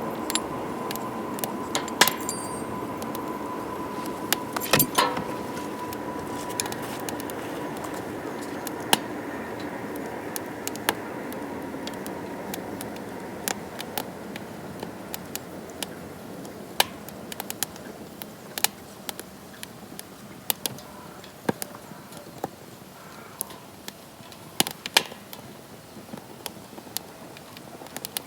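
Wood fire crackling in a DOD Mecha Moe Fire fire pit: irregular sharp pops and snaps over a steady rush of flame that slowly dies down. A faint thin whistle fades out in the first half.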